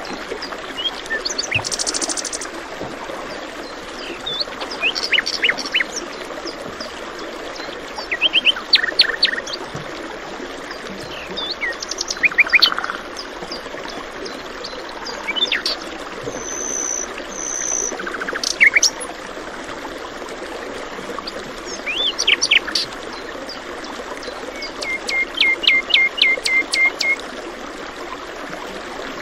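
Songbirds chirping and calling in short quick phrases over the steady rush of flowing water. Near the end one bird gives a fast run of about a dozen repeated notes.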